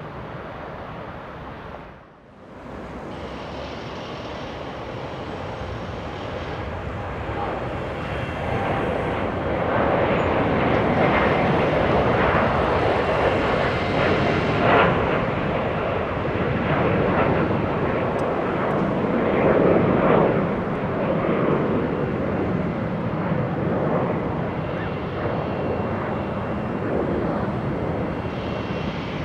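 Jet airliner's engines heard as it passes the runway: the engine noise drops out briefly about two seconds in, then builds and stays loud through the middle, easing slightly near the end.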